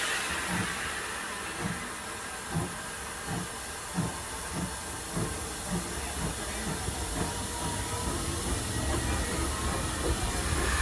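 Norfolk and Western 475, a 4-8-0 steam locomotive, working along with a steady hiss of steam and a regular beat about every two-thirds of a second.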